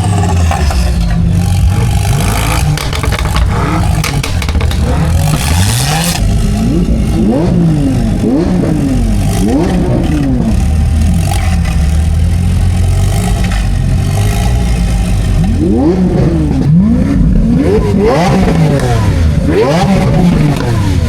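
Car engine revved hard again and again on the spot. After a few seconds of steady running, it blips up in pitch and drops back about once a second, with a quicker run of revs near the end.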